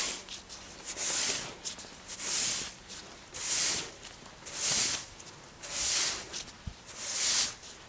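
A broom sweeping snow off steps and a railing in steady strokes: about seven hissing swishes, one every second or so.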